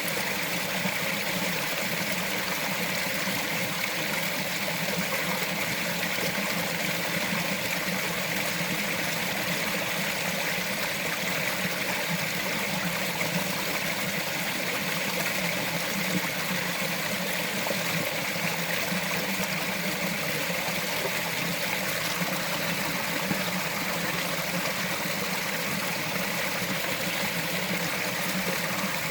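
A small mountain forest stream flowing steadily, an even rush of water that does not change.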